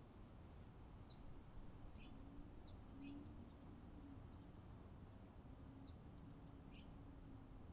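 Faint, short, high chirps from a small songbird, repeated about once a second or so.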